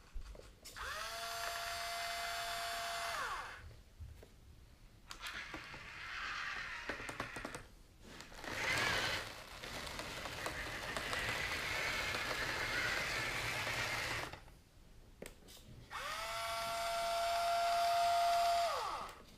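Small geared electric motors of a Hobby Engine HE0715 RC track loader running in several bursts. A pitched whine rises as a motor spins up and falls as it stops, once near the start and again near the end, with rougher, noisier running in between.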